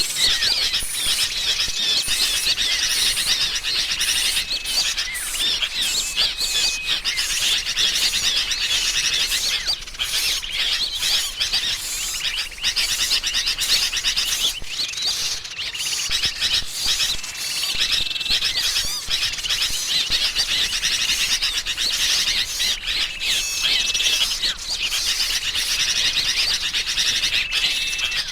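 Bird-lure recording of agitated, noisy sooty-headed bulbul calls mixed with other small songbirds, a dense non-stop chatter of quick chirps. A thin, steady whistled note, held about a second, comes back several times through it.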